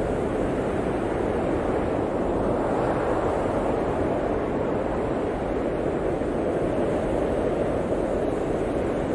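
Blizzard wind blowing steadily, a deep rushing noise that swells briefly a few seconds in.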